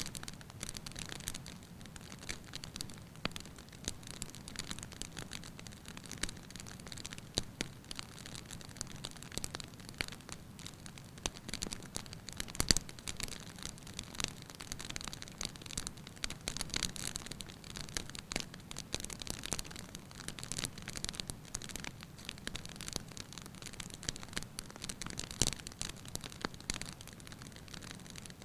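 Wood fire burning in a fireplace: a steady hiss with dense, irregular crackling and snapping, and a few louder pops, one about midway and one near the end.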